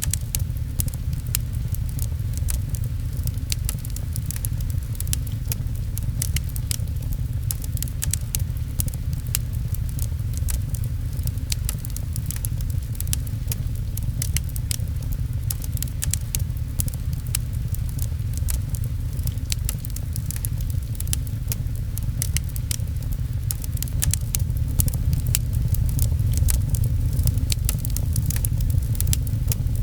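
Wood fire crackling with frequent sharp pops, over a steady low rumble and the patter of rain on a window. The sound grows slightly louder about three quarters of the way through.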